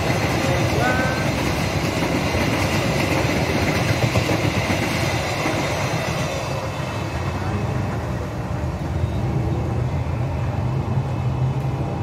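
Passenger coaches of an Indonesian express train passing at speed: a steady rush and rumble of wheels on the rails. The higher hiss thins out about halfway through as the last coaches go by, leaving a lower rumble.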